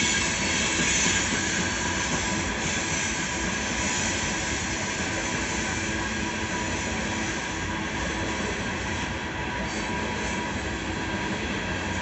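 Coal train's hopper cars rolling steadily past, the continuous noise of steel wheels on rail, heard from inside a car.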